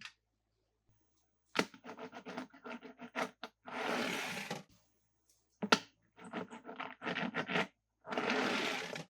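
Small plastic toy cars being handled, with runs of light clicks and clatters. Twice, near the middle and near the end, a rushing scrape lasts about a second.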